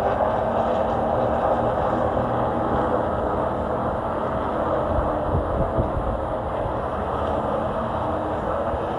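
Race truck's engine running steadily under racing load, heard from inside the cab along with road noise.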